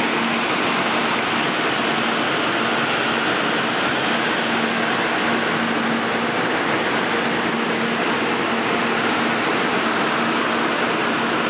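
Kyushu Shinkansen 800 series train passing slowly: a steady rushing noise with a faint low hum underneath, unchanging in level.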